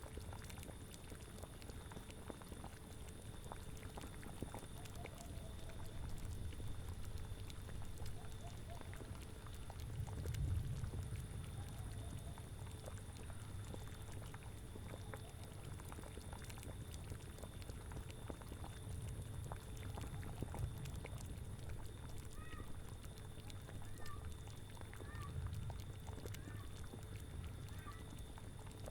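Spooky ambience mix: a low wind rumble that swells in gusts about ten, twenty and twenty-five seconds in, over a cauldron bubbling softly. A few faint short animal calls come in the second half.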